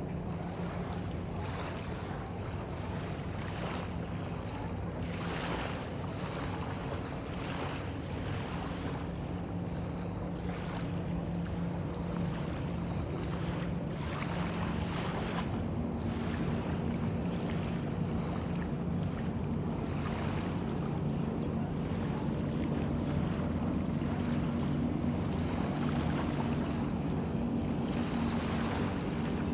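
Small bay waves washing in every few seconds, over the steady low drone of a passing motorboat's engine that grows a little louder in the second half.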